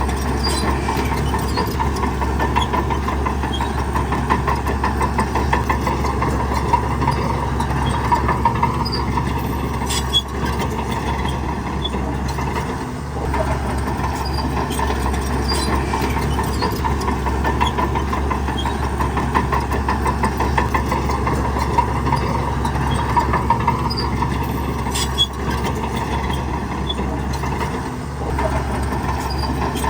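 Heavy diesel construction machinery running steadily with a rattling clatter and a few sharp clanks. The sound dips briefly twice, about halfway through and near the end.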